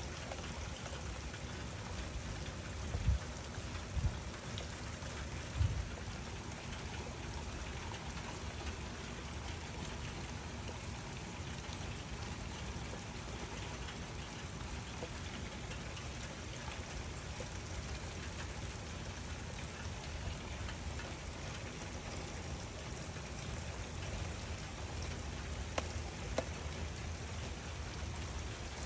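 Steady rain falling, an even hiss of drops. A few brief low thuds stand out about three to six seconds in and again near the end.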